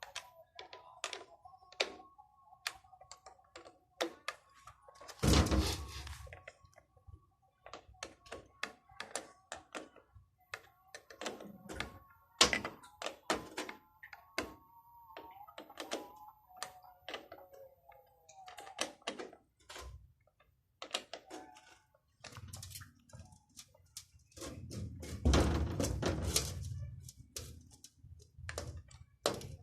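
Irregular clicks, taps and knocks of tools and parts being handled while working on an electric pump motor, with a few heavier thunks and a longer stretch of rattling and scraping near the end.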